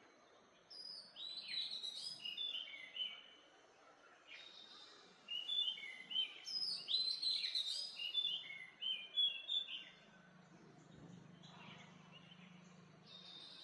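Wild birds singing: two bouts of quick, varied chirping notes. The first starts about a second in; the second is longer and louder and runs from about five to nine and a half seconds. A faint steady hiss lies underneath, and a faint low hum comes in near the end.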